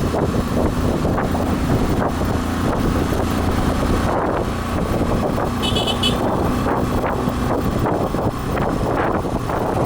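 Motorcycle engine running steadily on the move, with wind on the microphone; a short horn beep about six seconds in.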